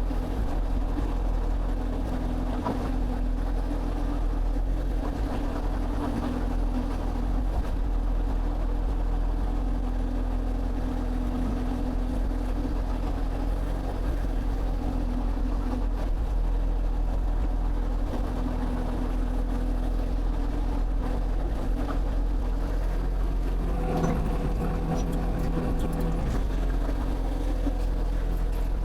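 Excavator diesel engine running steadily under work, with a couple of higher tones coming in for about two seconds near the end.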